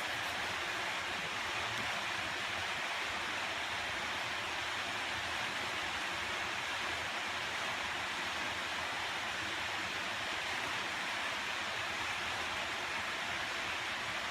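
Steady, even hiss that does not change and has no separate clicks or bites in it.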